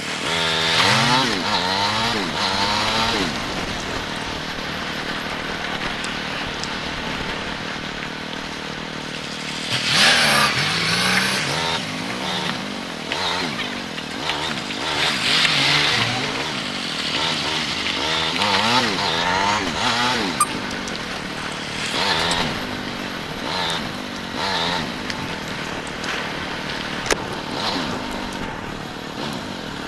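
Motorcycle engine revving up and easing off again and again as the bike accelerates and slows, over a steady rushing noise. The strongest rise in pitch comes about ten seconds in.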